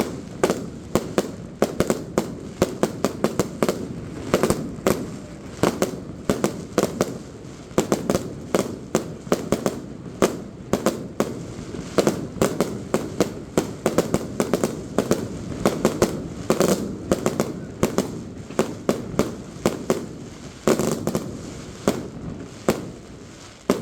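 Aerial fireworks bursting in quick succession: many sharp bangs, several a second and irregular in spacing, over a continuous low rumble of shells and echoes.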